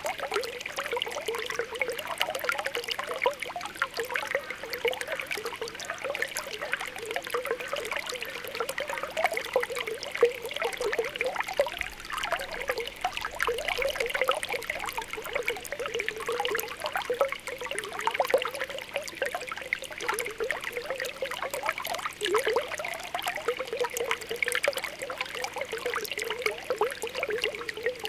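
Spring water welling up, bubbling and gurgling with continual small pops over a steady trickle.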